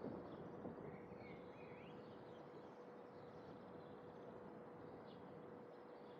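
Faint outdoor ambience of distant birds chirping, with a short warbled call a second or two in, over a steady hiss and a faint steady hum.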